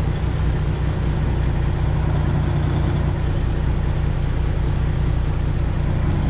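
A semi truck's Detroit Diesel 12.7-litre Series 60 engine running steadily at low idle while the truck reverses slowly. A brief faint high chirp comes about three seconds in.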